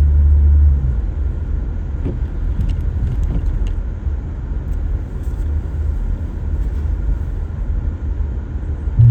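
Steady low rumble of a car driving, with a few faint clicks. Background music with a heavy bass cuts off about a second in.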